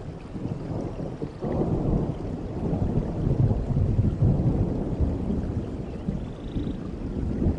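Rolling thunder over steady rain: a deep rumble swells suddenly about a second and a half in, is loudest a couple of seconds later, then slowly dies away.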